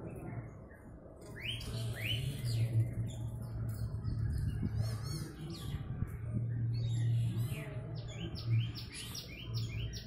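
Small birds chirping: a couple of rising calls about one and a half seconds in, scattered calls after, and a quick run of short chirps near the end, over a low steady hum.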